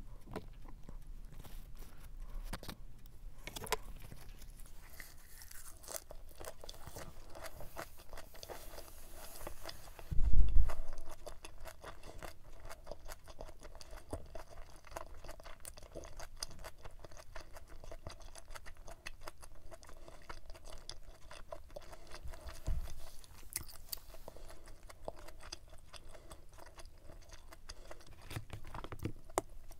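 Close-up chewing of a mouthful of leaf-wrapped stir-fried pork intestines and rice ball, with many small wet crunches and clicks. A dull, low thump about ten seconds in is the loudest sound, with a softer one later.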